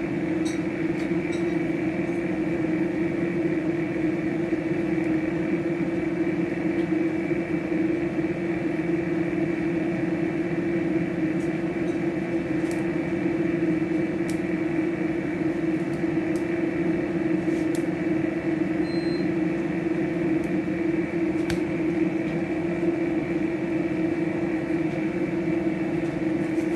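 Steady mechanical hum of a motor or fan running, with a few faint light clicks.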